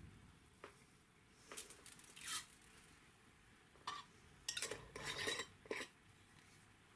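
Light clinks and scrapes of kitchen utensils against a saucepan and other dishes while spices are measured into a brine, coming in a few scattered knocks with a busier clatter past the middle.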